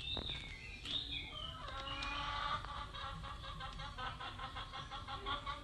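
Bird calls: a few short rising-and-falling calls, then from about two seconds in a long run of rapid repeated notes that stops near the end.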